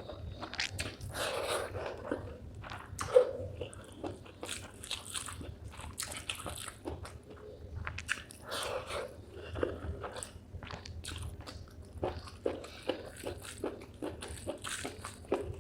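Close-up mouth sounds of a person chewing and biting spicy chicken gizzard with rice: irregular wet crunches and smacks, with one sharp louder crunch about three seconds in.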